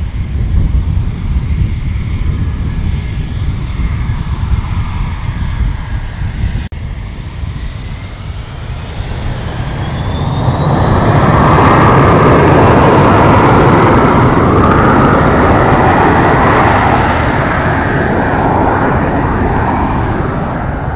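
Jet aircraft engines. A steady high whine is followed by a short break, then the whine rises in pitch as the engines spool up. A loud roar builds, holds for several seconds and eases slightly near the end.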